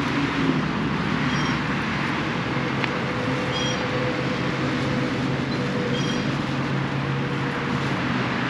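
Steady traffic noise from a busy highway nearby, an unbroken wash of tyre and engine sound.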